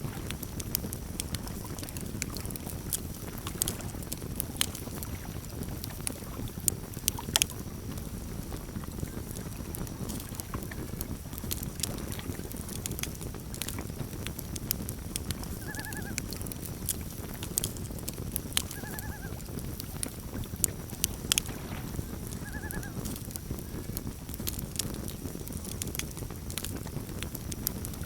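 Campfire crackling: frequent sharp pops and snaps over a steady low rumble of the burning fire. About halfway through, three short arched animal calls sound a few seconds apart.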